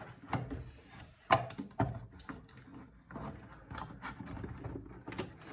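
A computer fan being handled and tried in place inside a wooden box case: scattered light knocks, clicks and rubbing, the sharpest clicks a little over a second in.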